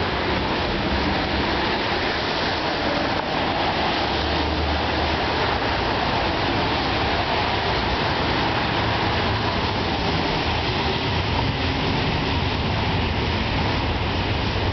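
Double-stack container freight train rolling over a rail viaduct: a steady, even rumbling noise.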